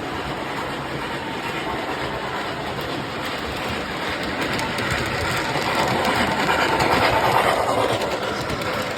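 MTH C&O Greenbrier 4-8-4 model steam locomotive running on model track with cars in tow, its rolling wheels and running sound growing louder to a peak about seven seconds in, then easing as it passes.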